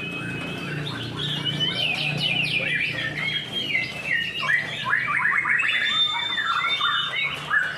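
Several white-rumped shamas (murai batu) singing over one another in fast, varied phrases of whistles, slurred notes and rapid trills, with one long held high note near the end.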